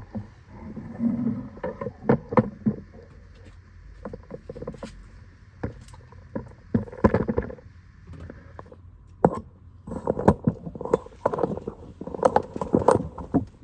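Irregular clicks, knocks and short rattles of tools and car parts being handled during steering wheel removal work.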